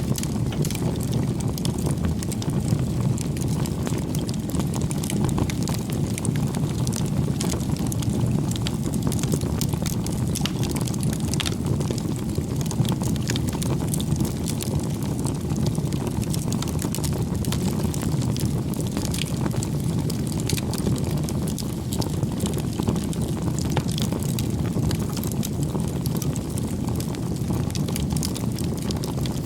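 Wood bonfire burning, with a steady low rush of flame and frequent small, irregular crackles and pops.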